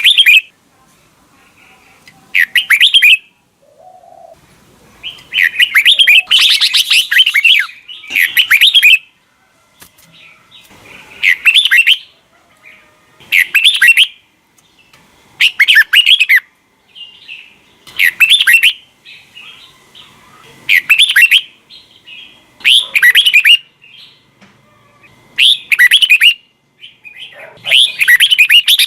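Red-whiskered bulbul singing: short, loud warbled phrases repeated about every two seconds, with a longer run of song about five seconds in.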